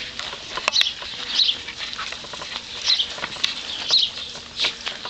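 Birds chirping: short high chirps every second or so, over scattered light clicks and rustling.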